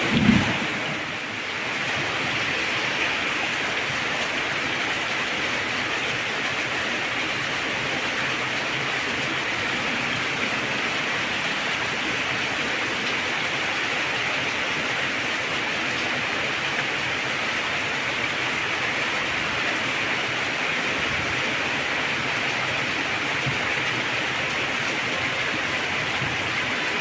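Heavy rain falling steadily, an even hiss of downpour, with a short low thump of thunder right at the start.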